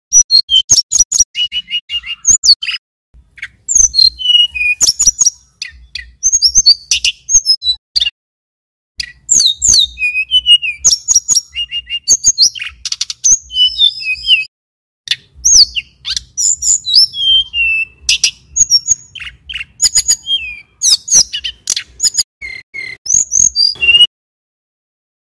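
Male tledekan gunung (sulingan gunung) singing at full volume: rapid phrases of sharp chips, fast trills and high whistled notes that rise and fall, separated by brief pauses. The song stops about a second before the end.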